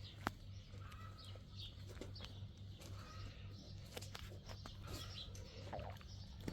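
Scattered small bird chirps with a few sharp clicks, over a steady low hum.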